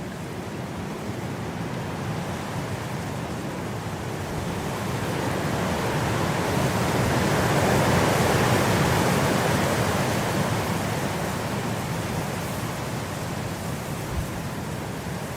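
Blizzard wind blowing as one long gust: a steady rush that swells to its strongest about halfway through, then slowly dies down.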